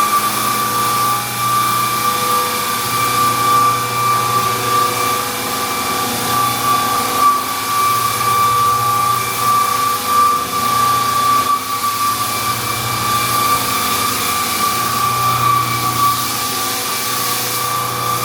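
Electric floor sander running steadily on hardwood flooring, a constant high whine over a rushing grind.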